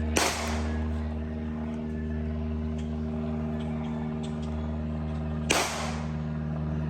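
A vehicle engine idling steadily, with two sharp bangs about five seconds apart.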